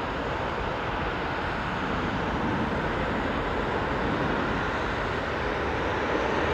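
Passenger jet airliner on approach to land, its engines a steady rushing noise that grows slowly louder.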